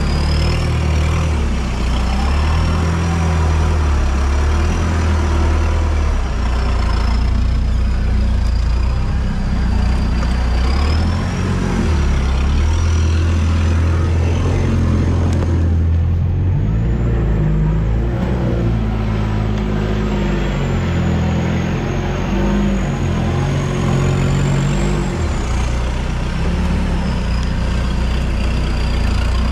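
Off-road 4x4's engine running and revving up and down as it drives over rough dirt terrain, with a thin high whine that wanders in pitch throughout.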